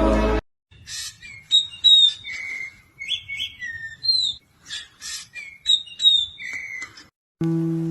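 A bird chirping and whistling in short high notes, some sliding up or down, with a few small clicks between them.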